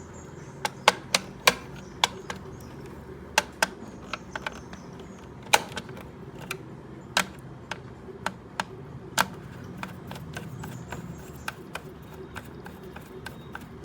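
Irregular sharp metallic clicks and taps of screws and a screwdriver as a mixer grinder's motor housing is screwed back together and tightened.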